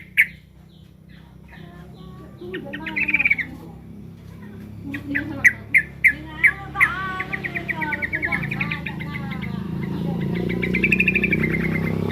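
Sooty-headed bulbul (trucukan) giving alarm calls: sharp single chirps and rapid trains of short notes, several a second, with two buzzy rattles, one about three seconds in and one near the end.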